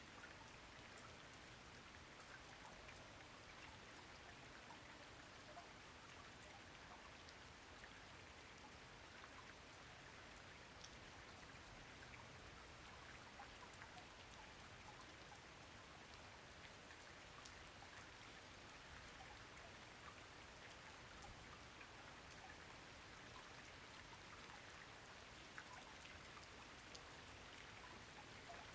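Soft, steady rain falling, with many small individual raindrop ticks over an even hiss.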